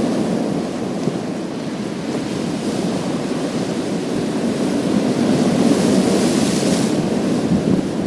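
Sea waves breaking and washing over a gravel beach: a continuous rushing surf, with a brighter hiss as a wave washes in about six seconds in.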